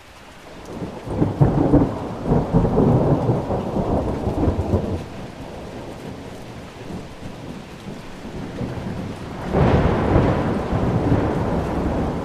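Thunder rolling twice over steady rain: a long rumble that builds about a second in and fades after about five seconds, then a sharper crack near the end that rumbles on.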